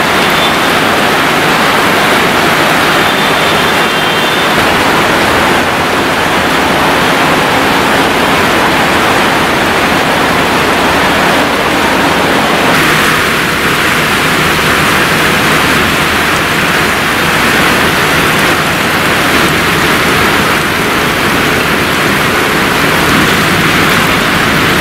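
Heavy rain pouring down, a dense steady hiss of the downpour; its character shifts about 13 seconds in.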